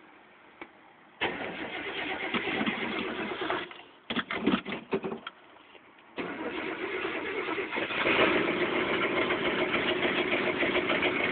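1985 Chevrolet pickup engine cold-started in 7-degree cold. After a single click, the starter cranks for about two and a half seconds without the engine catching, followed by a few short stuttering bursts. About six seconds in, the engine fires and keeps running, getting louder a couple of seconds later.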